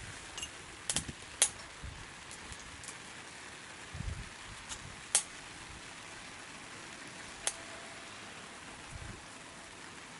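Wood fire burning in a small secondary-combustion camp wood stove: a steady hiss with a few sharp crackling pops, plus a couple of dull low knocks.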